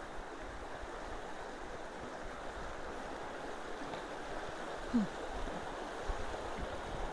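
Steady rush of a full roadside ditch's water flowing down toward the creek and its culverts. A brief short sound stands out about five seconds in.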